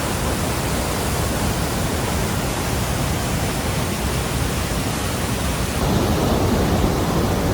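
The Rheinfall's falling water rushing in a steady, loud, even roar. It gets slightly louder about six seconds in.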